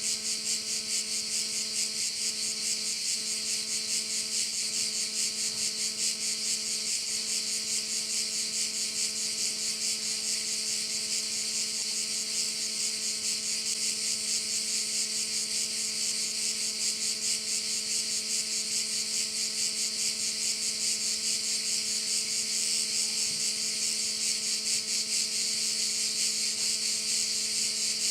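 A dense chorus of crickets chirring continuously in a high, rapidly pulsing buzz that never breaks. A faint steady low hum of several tones lies underneath.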